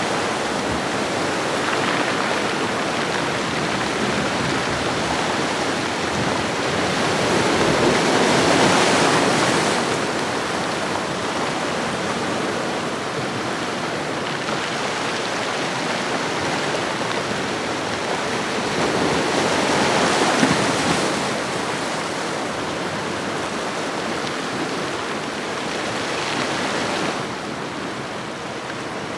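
Ocean waves washing onto a shoreline: a continuous rush of surf that swells twice, about a third of the way in and again about two thirds in, and settles lower near the end.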